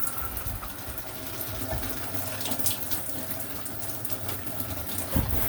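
Shower water running steadily from a Delta shower valve, turned on to test the temperature while the hot-water limit is being set. A short low thump sounds near the end.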